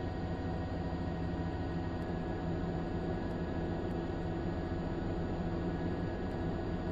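A steady machine drone with a constant hum and a fast low flutter.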